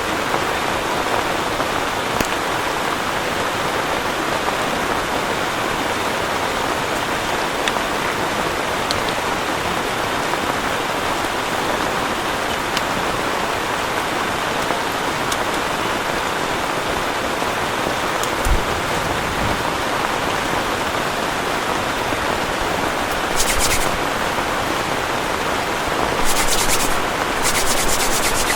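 Heavy rain falling steadily in an even hiss. There is one low thump about 18 seconds in, and brief rustling bursts near the end.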